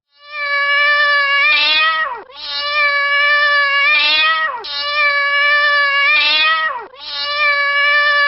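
Domestic cat meowing: four long, drawn-out meows, each holding a steady pitch and sliding down at the end, the same call repeated.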